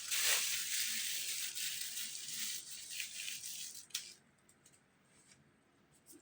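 Aerosol spray-paint can hissing in a steady spray with a few clicks, fading out about four seconds in.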